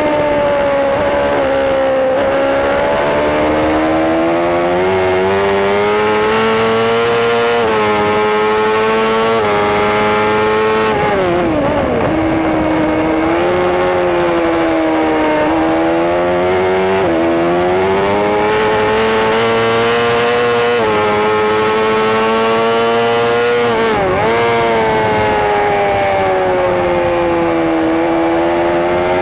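Superbike racing motorcycle engine at race pace, heard from on board. Its note rises and falls as the bike accelerates and slows for corners, with quick sharp dips about twelve and twenty-four seconds in.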